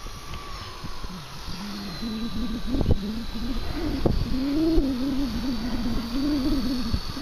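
Walkera V120D02S micro RC helicopter's electric motors whining and rotors humming, the lower tone wavering up and down in pitch as the helicopter is flown in gusty wind. Wind rumbles on the microphone.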